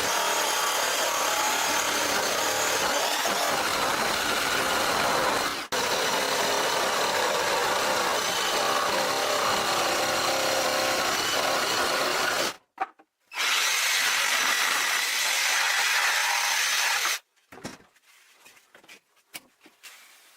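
A power tool running steadily as it works wood. It cuts out for a moment twice, then stops about three-quarters of the way through, leaving only faint knocks.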